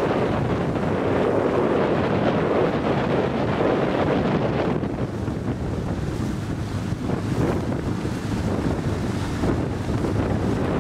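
Steady wind buffeting the microphone over the wash of lake water around a sailboat, easing a little about halfway through.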